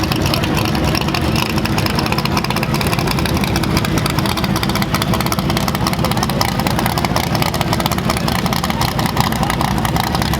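A car engine running loudly and steadily, with a rapid pulsing rumble.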